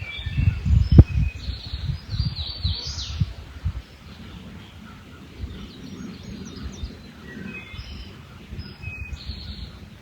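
Several birds chirping and trilling in short, scattered phrases. Low rumbling thumps sound in the first few seconds, with one sharp knock about a second in.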